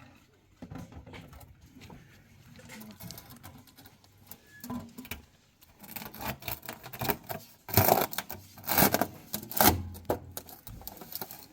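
Irregular clatter and knocks of objects being handled, with a run of louder knocks about eight to ten seconds in.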